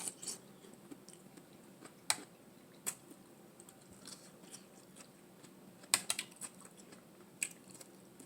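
Close-miked mouth sounds of a person eating: chewing, with sharp clicks and smacks scattered through and a quick cluster of them about six seconds in.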